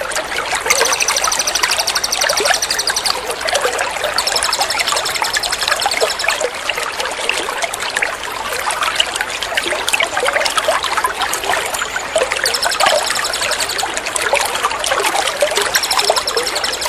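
Running water trickling steadily under a small bird's rapid, high-pitched trills, which come in four phrases of one to two seconds each.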